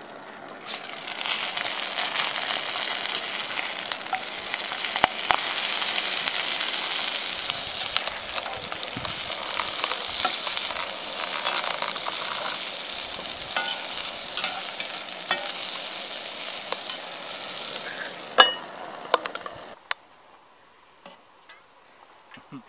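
Brussels sprouts frying in a cast-iron skillet, sizzling steadily while a spatula stirs them, with scattered scrapes and clacks of the spatula against the pan and one loud clack near the end.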